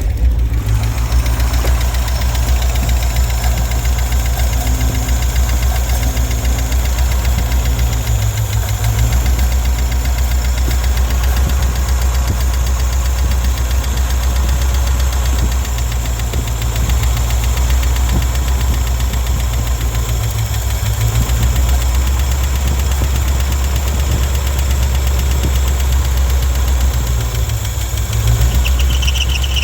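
1967 International 1200 truck's engine catching on a cold start and running steadily, fed gasoline squirted into the carburetor from a bottle. A brief higher squeal comes in near the end.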